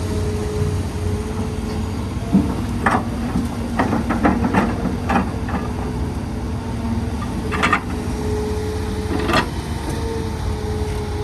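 Heavy excavator's diesel engine running steadily with a hydraulic hum while it loads soil into a dump truck. A quick run of clanks and knocks comes a couple of seconds in, then two single clanks later on.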